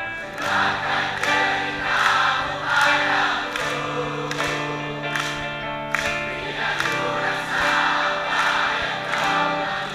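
Live band music: sustained chords under a steady drum beat, with many voices singing together.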